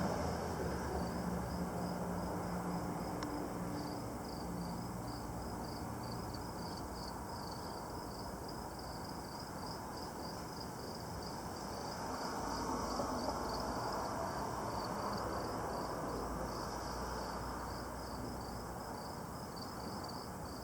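Crickets chirping steadily, about two to three chirps a second, over a low steady background hiss.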